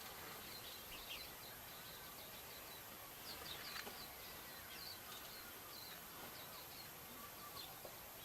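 Small birds chirping faintly: scattered clusters of short, high chirps, busiest around the middle, over a steady background hiss.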